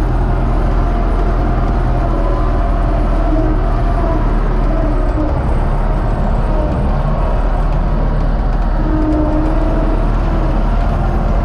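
UTB Universal 650 tractor's diesel engine running steadily under load, a loud, even drone with no change in pitch.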